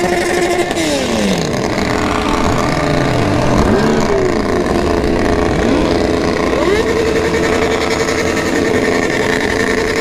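Several sport motorcycle engines revving and running together, their pitch rising and falling and overlapping. From about two-thirds of the way in, one engine holds a steady note.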